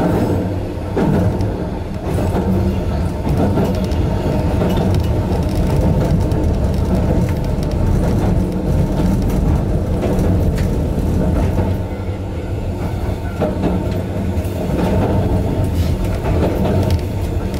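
Asunarou Railway 260 series narrow-gauge electric train running along the track, heard from inside the front car: a steady rumble of wheels on rail and running gear, with a few sharper clicks.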